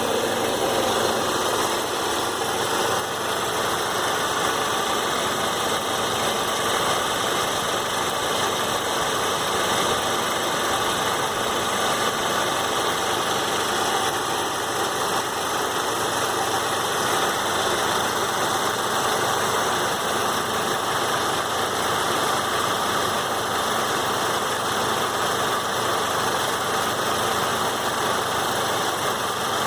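Warm Saab 9-3 2.0t turbocharged four-cylinder engine running steadily, at the engine speed where the owner hears a clicking sound, around 3000 rpm.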